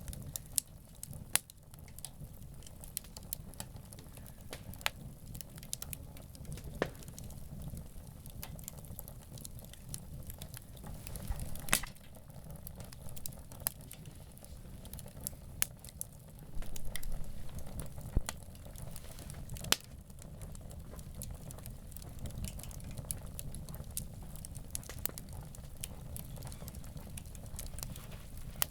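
Wood campfire crackling, with irregular snaps and pops over a low steady rumble. A few louder pops stand out along the way.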